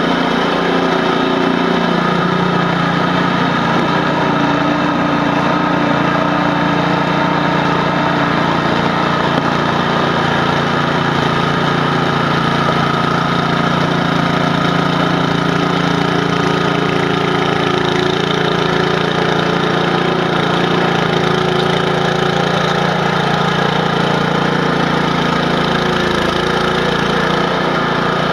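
Gasoline snowblower engine running steadily at a constant speed, loud and close.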